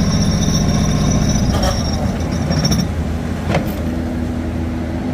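Heavy construction machine running steadily with a deep engine rumble. A high whine runs over it and stops about three seconds in, and a single sharp knock follows.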